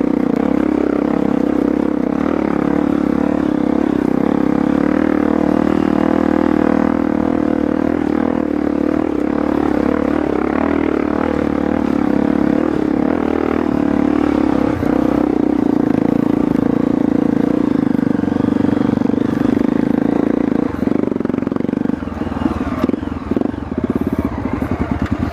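Trail motorcycle engine running at a steady, unchanging pitch, becoming choppier over the last few seconds.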